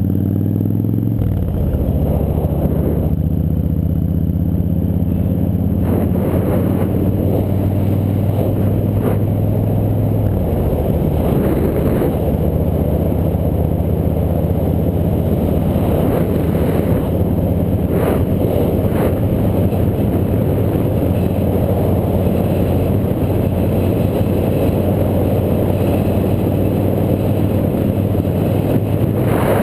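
Motorcycle engine running while riding, its note dropping about a second in and then holding steady, with wind and road rush on the microphone.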